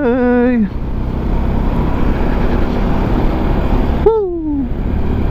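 Steady wind and road rush from a Peda Tekken 250 motorcycle riding at speed, with no distinct engine note. A voice trails off at the start, and a short, falling vocal sound comes about four seconds in.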